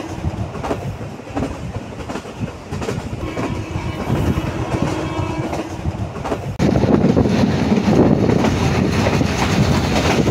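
Moving passenger train heard from aboard a coach: steady rumble of the wheels on the rails with a clickety-clack over the rail joints. About six and a half seconds in, the running noise suddenly gets louder and fuller.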